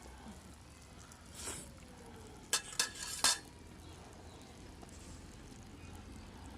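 Food frying on a steel can used as a griddle, with a utensil scraping and then clinking against the metal three times in quick succession.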